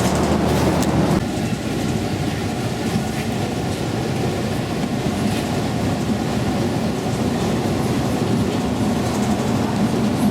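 A rail vehicle running along the track, heard from inside the car: a steady rumble and rattle of wheels on rail. About a second in, a steady high whine sets in and holds.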